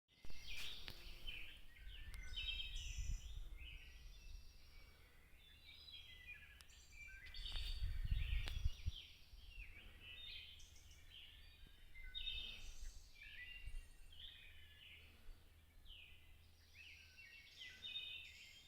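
Several songbirds chirping and singing over one another in a busy chorus. A low rumble comes and goes beneath them, loudest about eight seconds in.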